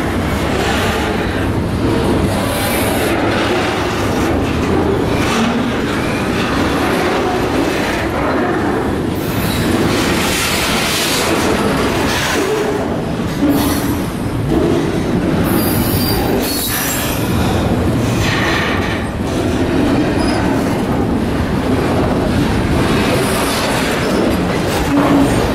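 BNSF double-stack intermodal train rolling past close by: a steady rumble and clatter of the loaded well cars' wheels on the rails, with brief high-pitched wheel squeals a few times, most plainly past the middle.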